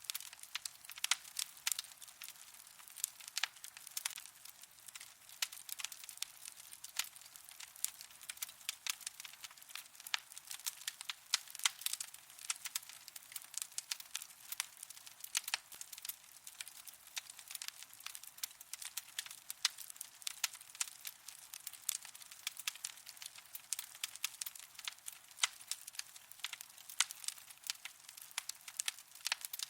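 Wood fire burning in a fireplace, crackling with frequent, irregular sharp pops over a soft steady hiss.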